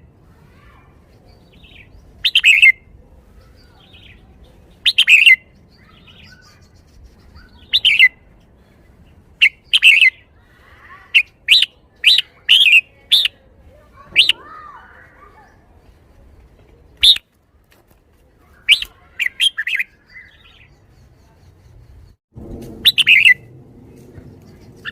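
Red-whiskered bulbul singing: short, loud, bright whistled phrases repeated every two to three seconds, with a quicker run of phrases in the middle. A low rumble sets in near the end.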